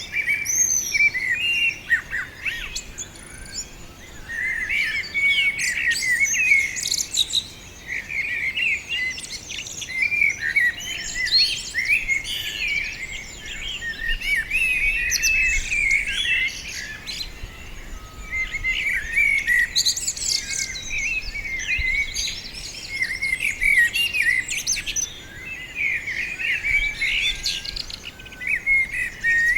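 Songbirds in a tree chirping and twittering without pause, with many short, quick calls overlapping.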